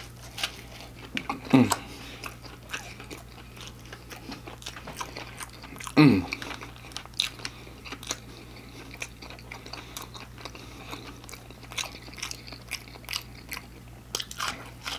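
Close-up chewing of crisp breaded fried chicken tenders: wet crunches and mouth clicks throughout. Twice a short hum drops in pitch, about a second and a half in and, loudest, about six seconds in.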